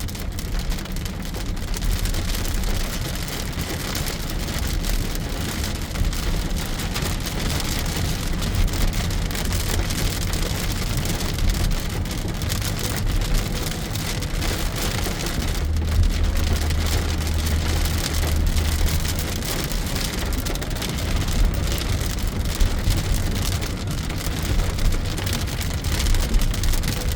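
Heavy rain beating on a moving car's roof and windshield, heard from inside the cabin over a low rumble of road noise.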